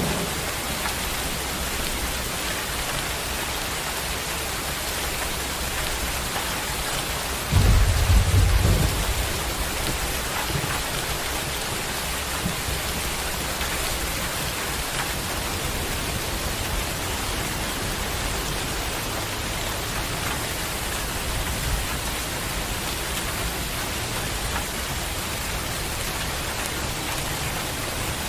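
Heavy rain falling steadily, a dense even hiss, with a sudden low rumble of thunder about seven and a half seconds in that lasts a second or two.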